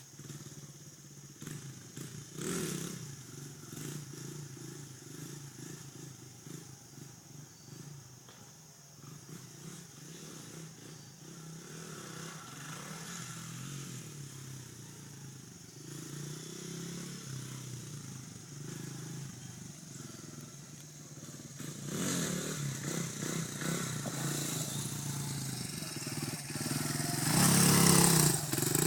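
Dirt bike engine running, its pitch wavering with the throttle; it grows louder in the last quarter and is loudest near the end.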